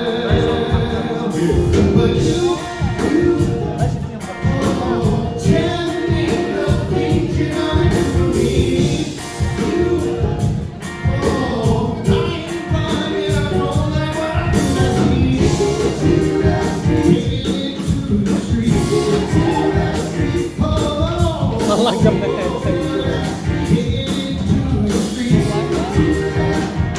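Live band playing a rock song with singing, over a steady drumbeat.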